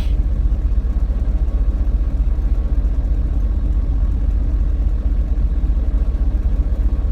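Truck engine running with a steady low rumble, unchanging throughout.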